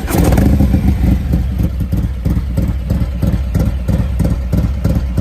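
Harley-Davidson Milwaukee-Eight 117 V-twin firing up and idling with a loping, pulsing beat of several pulses a second.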